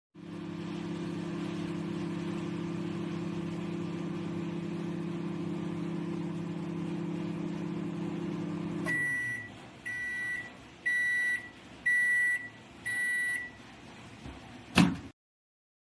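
Sharp basic 20-litre microwave oven running with a steady low hum, which stops about nine seconds in. Five beeps follow, about one a second, signalling the end of the cooking cycle, then a single sharp click.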